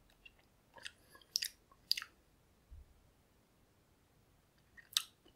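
A person chewing a small super-hot chili pepper with the mouth closed: a few faint, short clicks spread through the seconds, most of them in the first two seconds and one near the end.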